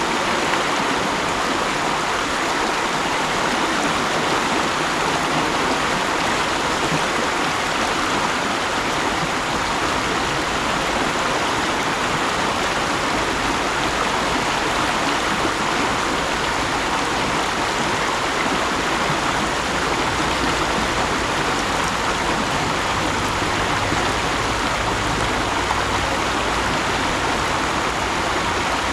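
Mountain stream rushing steadily over rocks, an even, unbroken splashing and gurgling of water.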